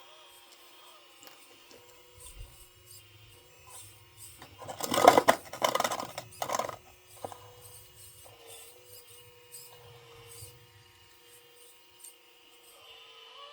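Small electric motors of a 1/12-scale homemade metal RC excavator whirring faintly, with a loud burst of scraping and clattering for about two seconds near the middle, followed by a few scattered clicks.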